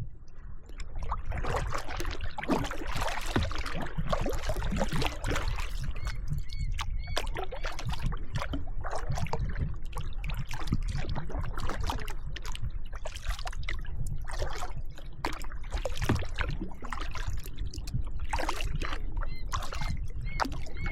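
Kayak paddling: irregular splashes and drips of water as the paddle blades dip and lift, over a steady low rumble.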